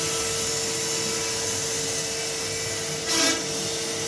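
A motor running steadily with a high, even whine over a rushing hiss, like a power tool or shop vacuum, with a short scraping knock about three seconds in.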